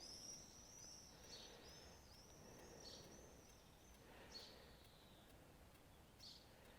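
Faint songbird chirping: short high calls repeating every second or so over near-silent outdoor quiet.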